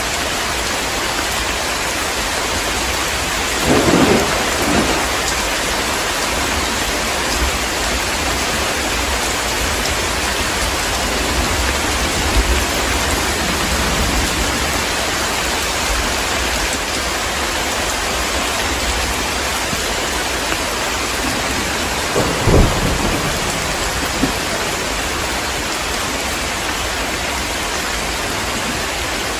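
Steady heavy rain, with two short cracks of thunder, about four seconds in and again about twenty-two seconds in.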